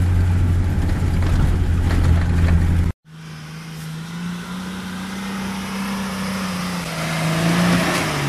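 Off-road vehicle engine running: a steady low drone, then after a sudden cut about three seconds in, an engine whose pitch gently rises and falls as it grows louder.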